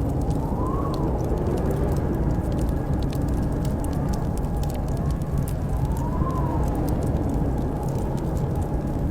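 Fireplace crackling in sharp, scattered pops over a steady low rumble of blizzard wind. The wind howls in rising-and-falling whistles, most clearly about a second in and again about six seconds in.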